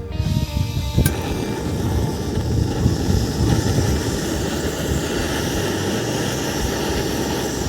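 Strong wind buffeting the microphone: a steady rush with a rough, fluttering low rumble that cuts in about a second in and holds evenly.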